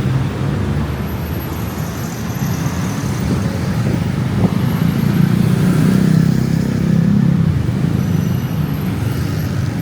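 City road traffic: a steady rumble of vehicle engines and tyres as cars and other motor vehicles pass along a busy street.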